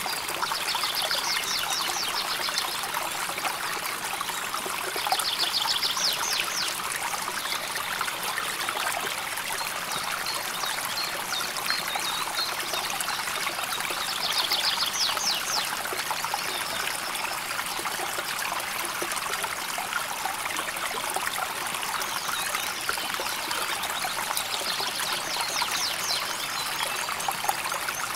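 River water flowing steadily, a continuous trickling and babbling stream. A high, rapid trill comes and goes four times, each lasting a second or two.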